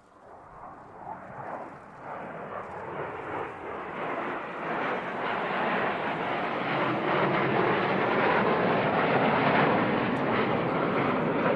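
Jet noise from Panavia Tornado aircraft and their RB199 engines, growing steadily louder over about eight seconds and then holding at its loudest as they pass overhead.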